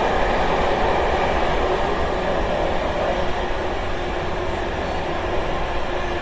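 Intercity train running at speed, heard from the corridor of a middle carriage: a steady rumble and rush of wheels on rail and carriage noise, easing slightly in loudness over the seconds.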